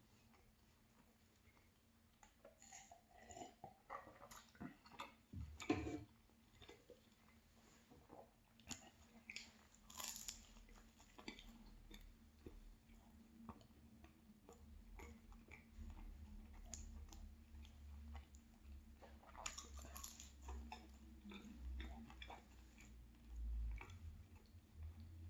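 A person biting and chewing a pastry at close range. Soft, scattered crunches and mouth clicks run throughout, with a few louder crunching bites.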